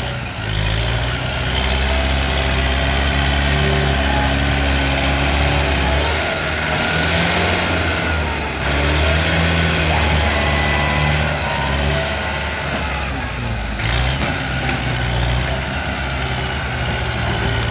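Kubota M108S tractor's diesel engine working hard under load while pushing soil, its pitch and loudness rising and falling as the load changes. Heavy rain hisses underneath.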